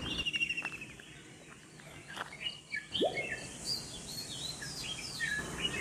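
Wild birds calling: a quick series of high chirping notes at the start, then scattered short high chirps, with one brief lower upward-gliding note about three seconds in.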